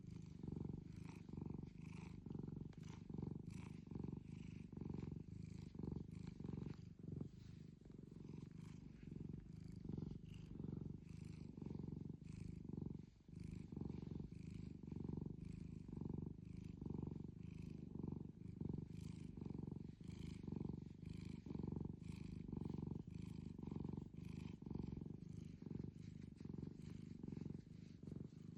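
Domestic cat purring loudly and continuously, in regular swells about once a second.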